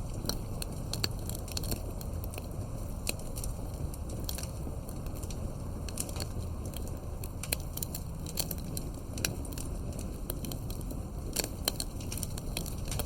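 Campfire wood crackling, with many irregular sharp pops and snaps over a steady low rumble of the burning fire.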